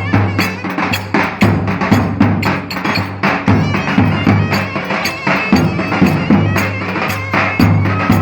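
Live Turkish köçek dance music: a reedy wind instrument carries the melody over fast, steady drum and percussion beats with a throbbing bass.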